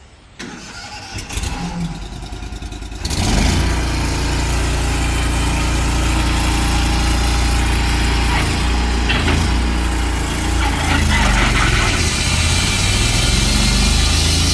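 Tru-Cut sawmill's engine cranking over and catching about three seconds in, then running steadily.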